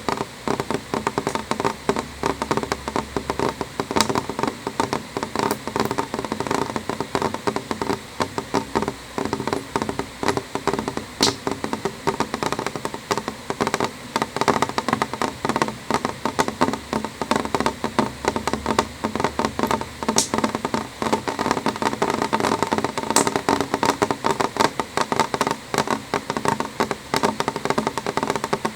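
Rain on a window pane: a dense, irregular run of drops tapping on the glass, with now and then a sharper single drop standing out.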